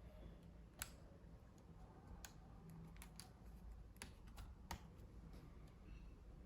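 Faint, irregular clicks and taps, about eight of them, from a laptop's keys or plastic parts being handled.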